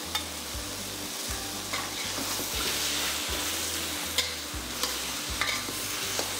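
King oyster mushrooms with garlic, ginger and chili sizzling steadily in oil in a hot pan as their released water cooks off. A spatula knocks and scrapes against the pan every half second to a second as they are stir-fried.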